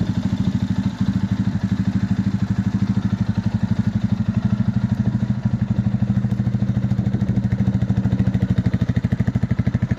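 Lifan K19 250 cc water-cooled motorcycle engine idling steadily just after being started, with an even, rapid exhaust pulse.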